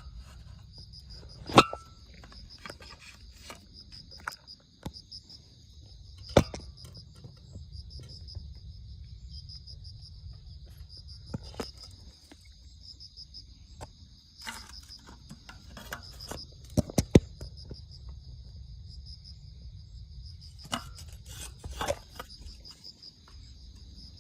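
Insects chirping in a continuous high, rapidly pulsing trill, with a low rumble underneath and scattered sharp clicks and knocks, the loudest about a second and a half in, around six seconds in, and a close pair near the middle.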